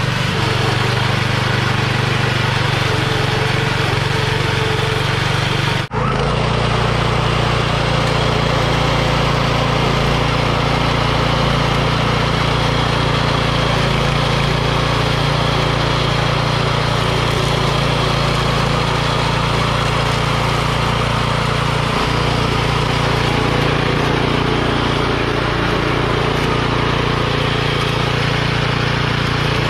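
Homemade remote-controlled lawn mower's engine running steadily and loudly. The sound drops out for an instant about six seconds in.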